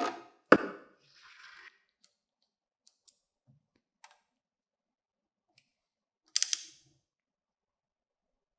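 Handling of hard parts: a knock, then a louder sharp knock half a second in and a short scrape just after a second. Faint ticks follow, then a quick triple click near the end.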